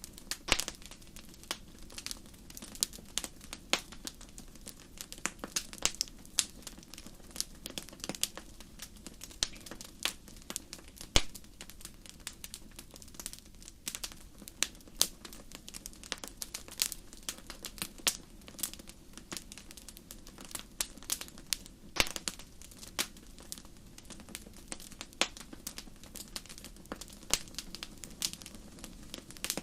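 Wood fire crackling in a fireplace: irregular sharp pops and snaps, several a second, over a soft steady low rush from the flames.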